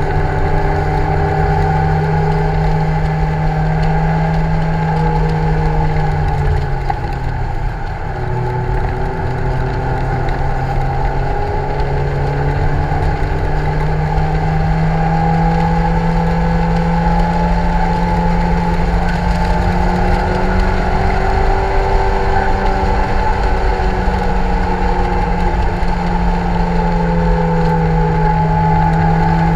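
Lotus Elise 111R's 1.8-litre Toyota VVTL-i four-cylinder engine running hard under load, heard from inside the open-top cockpit. It eases off about seven seconds in, then pulls again with its pitch rising slowly and holding high for the rest of the stretch.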